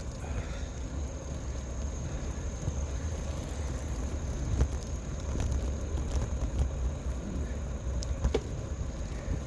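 A bicycle rolling along a path, picked up by a phone mounted on the bike: a steady low rumble of tyres and wind on the microphone, with a few light clicks and rattles.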